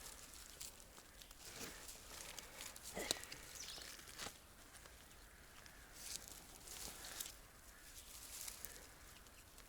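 Faint scattered rustling and handling noises, with a sharper knock about three seconds in and another just after four seconds.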